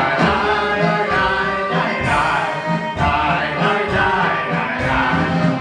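Live klezmer band playing a tune with a steady bass beat, with several voices singing together.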